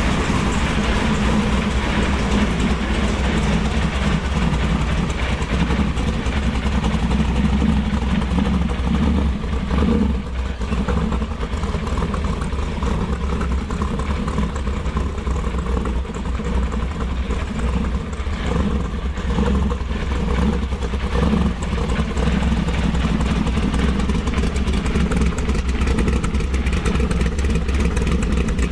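Supercharged dual-quad big-block V8 of a 1966 Chevy Nova pro-street car running at idle, a loud steady rumble.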